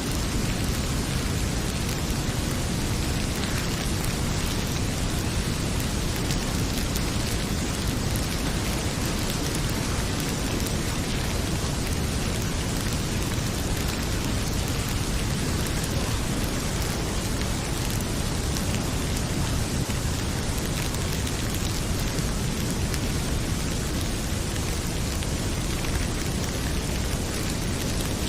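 Heavy rain pouring steadily, with faint scattered crackles from a wood fire in a fireplace.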